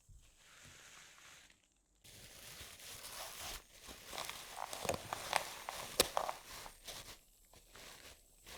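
Close-up rustling and crinkling of material being handled: a soft swishing for the first two seconds, then a denser crackling with many sharp clicks, the sharpest about six seconds in.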